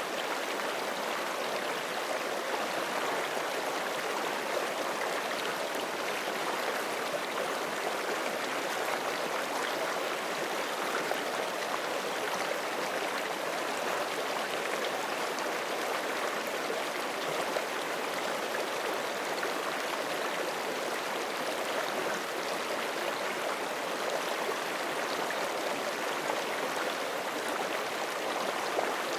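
Forest stream flowing steadily over rocks, a constant rushing and gurgling of water.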